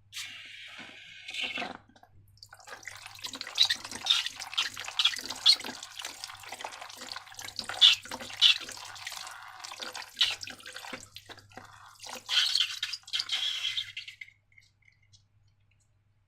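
Slime being squeezed and worked by hand: a dense run of small, irregular clicks that stops about two seconds before the end.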